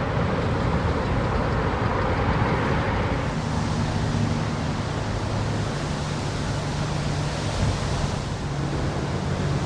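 Steady rushing noise, like wind and water at the ramp, with the low steady hum of a boat engine running from about three seconds in.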